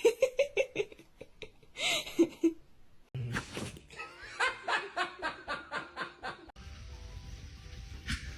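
People laughing in quick repeated bursts, first near the start and again through the middle, broken by abrupt cuts. Quieter hiss with faint steady tones near the end.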